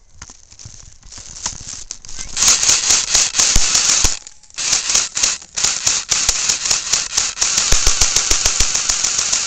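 Airsoft guns firing, a rapid run of sharp clicking shots that starts about two seconds in and goes on with a short break about four seconds in.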